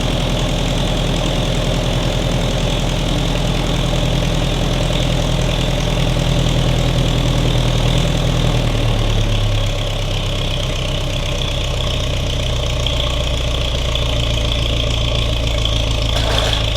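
Ferguson TEA20 tractor's four-cylinder petrol engine running steadily after its first start; about nine seconds in it slows and settles to a lower, steady idle. A single sharp click near the end.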